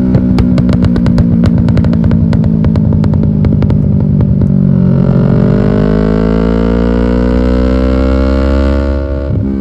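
Yamaha R6 sport bike with an aftermarket European exhaust: the engine holds a steady note with rapid crackling and popping for the first few seconds, then climbs steadily in pitch as it accelerates. The pitch drops suddenly near the end, as at a gear change.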